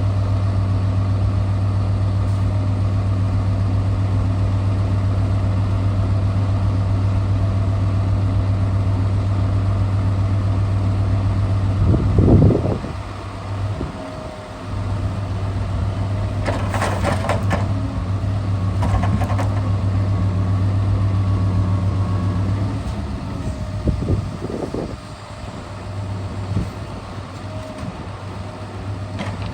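Scania R650 truck's V8 diesel engine running steadily while the timber crane works. Several knocks and clatters come midway, the first and loudest about twelve seconds in, after which the engine note drops and wavers.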